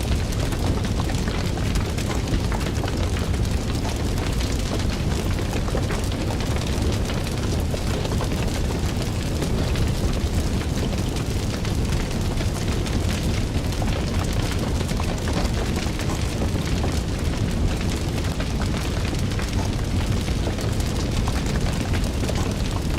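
Fire crackling: a steady low rumble with many small, sharp crackles and pops all through.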